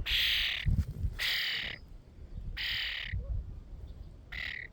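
A bird close by giving four harsh, raspy calls, each about half a second long and roughly a second apart.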